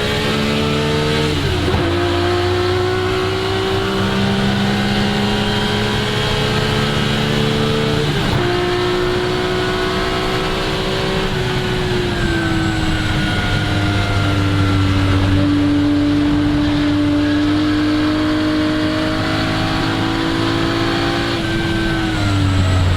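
1961 Ferrari 250 GT SWB's three-litre Colombo V12 running under load at moderate revs. Its pitch climbs slowly, breaks sharply twice, at about a second and a half and about eight seconds in, as if changing up a gear, then eases down and holds lower and steady before dropping again near the end.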